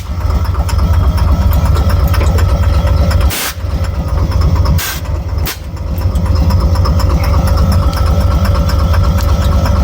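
Engine running with a rapid, steady knocking, the knock that goes with the vehicle's lack of power and that the owner cannot diagnose. Three sharp cracks come near the middle, where the sound briefly dips.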